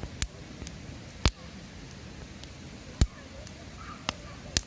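Wood campfire burning with a steady low crackle and about five sharp, loud pops at irregular intervals.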